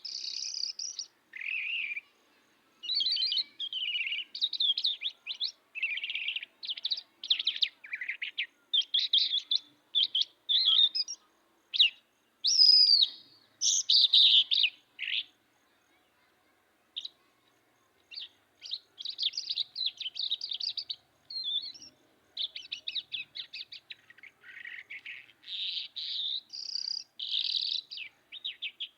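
A songbird singing a long, fast, varied song of chirps and trills, broken by a pause of about two seconds halfway through.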